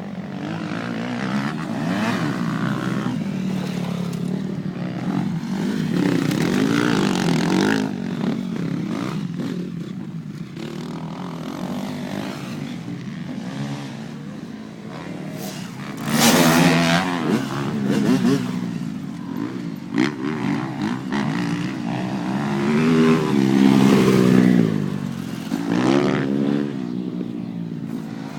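Motocross dirt bike engine revving up and down over and over as it is ridden around the track, rising and dropping in pitch with the throttle and gear changes. It gets sharply louder about halfway through, and again a few seconds before the end.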